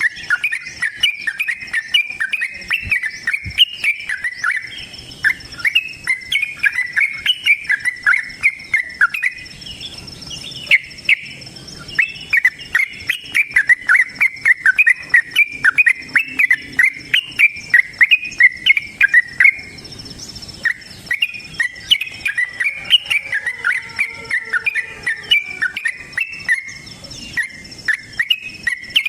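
Yellow-vented bulbul (trucukan) singing long, fast runs of short chirping notes, pausing briefly about ten and twenty seconds in. A faint steady high-pitched tone runs underneath.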